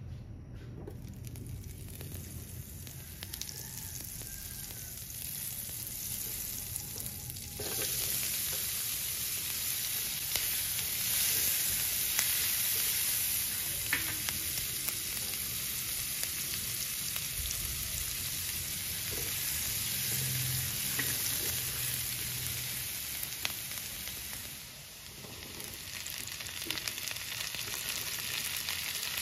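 Butter sizzling in a frying pan, then diced onion and garlic frying in it. The hissing sizzle gets suddenly louder about a quarter of the way in, dips briefly near the end, then picks up again.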